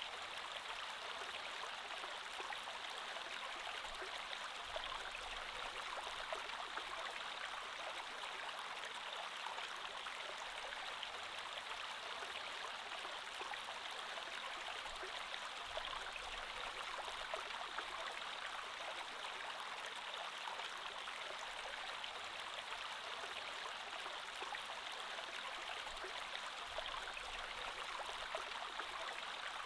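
Creek water flowing steadily over rocks: an even rushing with fine splashes and gurgles.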